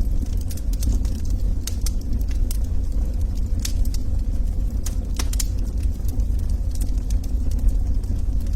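Wood fire burning in a fireplace: a steady low rumble of flames with scattered sharp crackles and pops from the logs, a few louder snaps about halfway through.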